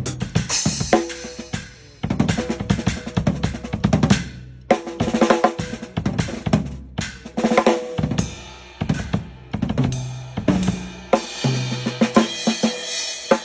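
DW acoustic drum kit played solo: fast fills across snare, toms and bass drum with rimshots and cymbal crashes, pausing briefly between phrases.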